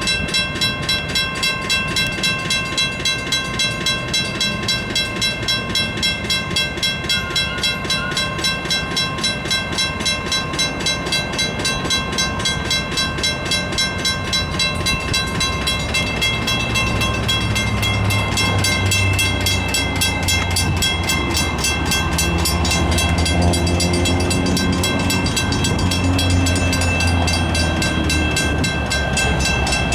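Graham White electronic crossing bell ringing steadily, about two and a half strikes a second. From about halfway through, the EMD DE30AC diesel locomotive's engine rumble builds and grows loud as the train reaches the crossing, drowning out the bell.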